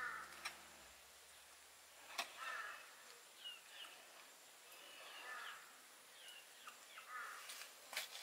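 Faint outdoor quiet with a few scattered bird chirps, each a short little glide in pitch, and a couple of small clicks.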